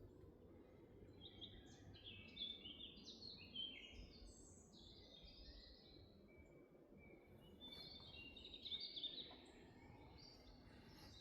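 Faint birdsong in a forest: quick high chirping phrases for a few seconds from about a second in, then a second run of chirps around eight seconds in, over a low steady background hum.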